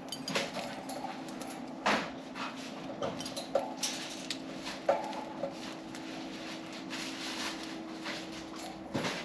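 Pet budgerigars chirping in short calls, with scattered sharp clicks and taps over a steady low hum.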